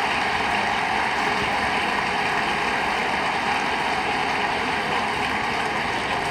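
Crowd applauding steadily, a dense even clapping with no break.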